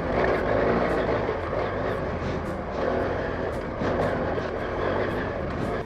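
Motorcycle engine running while riding, with heavy wind noise rumbling over the microphone; the sound cuts off abruptly near the end.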